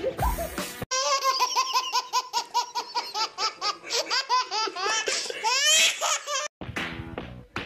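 Baby laughing hysterically in a long run of quick, rhythmic belly laughs, about four a second, cut off suddenly about a second before the end.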